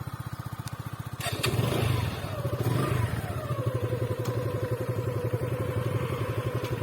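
Motorcycle engine running with steady, even firing pulses. It picks up briefly about a second and a half in, then settles back to a steady run.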